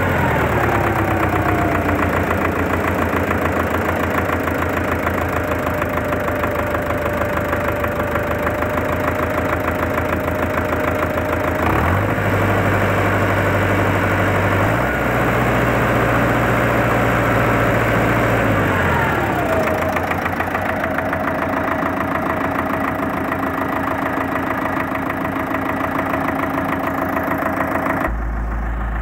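Four-cylinder D-243 tractor diesel running just after its fuel injection pump was repaired. It slows to idle right after the start, is revved up briefly about twelve seconds in and again for a few seconds a little later, then settles back to a steady idle. The sound changes abruptly near the end.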